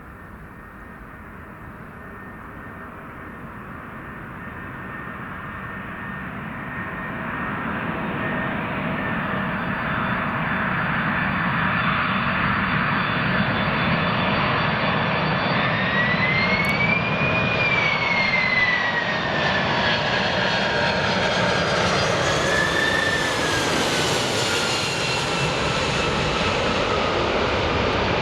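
Boeing 747 jet engines on landing approach, growing louder over about ten seconds as the jumbo jet nears, with a high fan whine that bends up and then drops in pitch as it passes by, partway through.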